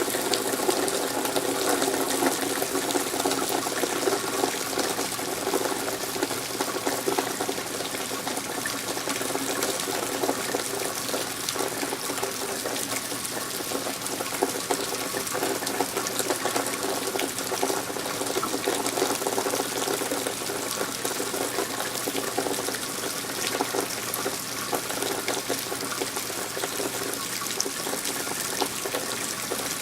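Steady rain falling: an even hiss dotted with many small sharp drop ticks.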